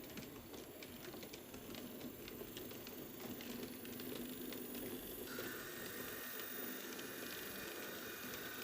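Model train running on its track: faint, quick irregular clicking and rattling of the wheels on the rails. A steady high whine joins about five seconds in.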